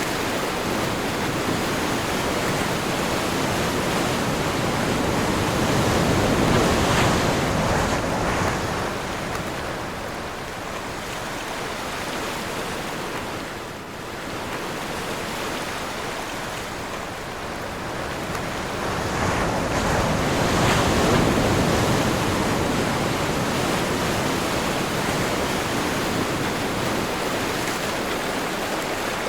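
Ocean surf with wind: a steady wash of waves, with two larger waves building and breaking, one about a quarter of the way in and one about two-thirds through.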